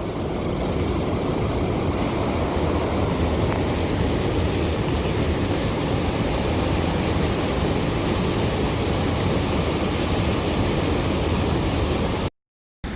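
Hurricane-force wind making a steady, constant roar, an even rushing noise that cuts off abruptly near the end.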